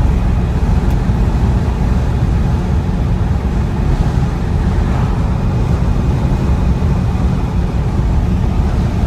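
A 1950 Packard's straight-eight engine running while the car is driven: a steady low rumble mixed with road noise.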